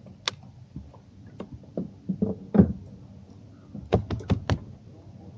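Irregular knocks and sharp clicks of gear being handled in a kayak, the loudest thud about two and a half seconds in, then a quick run of four or five clicks about four seconds in.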